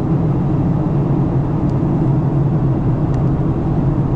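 Steady cabin noise inside a Boeing 737-900 on descent: the low, even drone of its CFM56 engines mixed with airflow rush past the fuselage.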